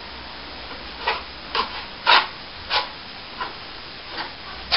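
Plastering trowel scraping wet plaster over a ceiling patch in a series of short strokes, roughly one every half second to second, the strongest a little past two seconds in. This is the spreading of the second coat.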